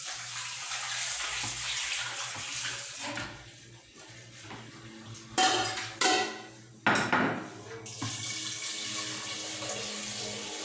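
Kitchen tap running into the sink as raw chicken breast is rinsed, with three sharp clanks of a pot or pan around the middle, then water running steadily again.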